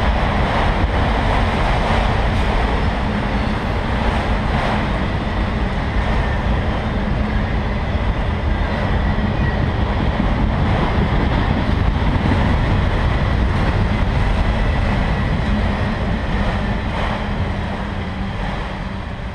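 Freight train of multi-level autorack cars rolling past on the rails: a steady rolling noise of steel wheels on track with a faint steady high tone over it, fading near the end as the last car goes by.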